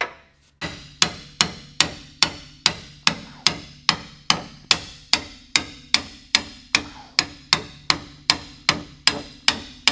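Hammer blows driving a seam-splitting chisel between two spot-welded steel body panels to separate them. The strikes are sharp and metallic, coming evenly at about two and a half a second.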